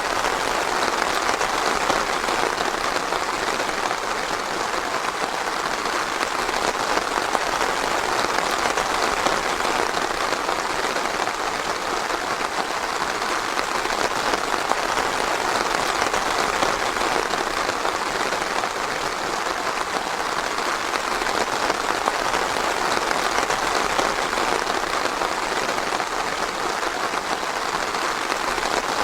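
Steady rain falling on foliage, a dense even patter with no thunder or change.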